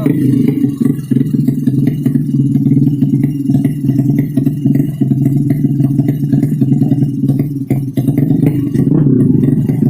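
Underbone racing motorcycle engine running loudly at a steady, choppy speed, neither rising nor falling.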